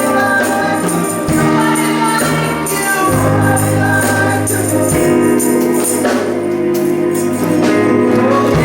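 Gospel praise music: a group of singers holding sustained notes over a band with bass and keyboard, with a tambourine shaking along.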